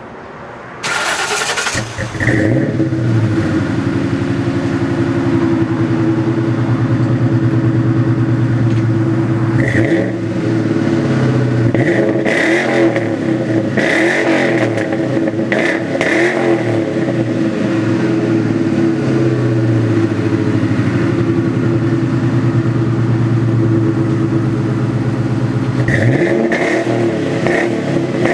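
2001 Ford Mustang Bullitt's 4.6-litre V8 through BBK headers and Flowmaster two-chamber mufflers, cranked and catching about two seconds in, then idling with several short throttle revs in the middle and again near the end.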